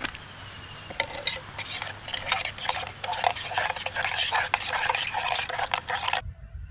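A spoon stirring a drink in a cup, in a rapid run of clinks and scrapes that starts about a second in and cuts off abruptly near the end.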